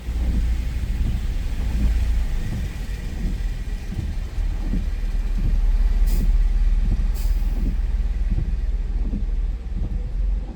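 A loud, low vehicle rumble, most likely a large vehicle such as a truck or bus, that comes in and cuts off abruptly. Two short sharp clicks are heard about six and seven seconds in.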